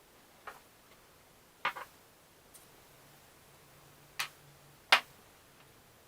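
Several short, sharp knocks at uneven intervals, a doubled one about a second and a half in and the loudest about five seconds in.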